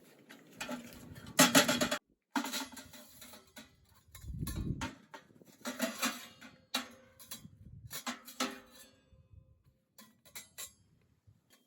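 Irregular knocks and clinks of cookware and utensils being handled, some ringing briefly, growing sparser and fainter near the end.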